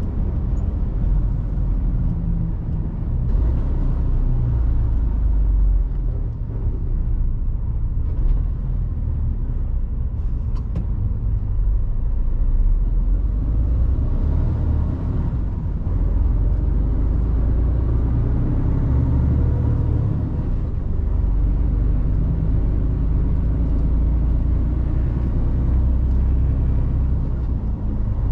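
Mercedes-Benz Actros truck's diesel engine running, with road and tyre noise, heard from inside the cab as a steady low rumble that swells and eases a few times with the throttle.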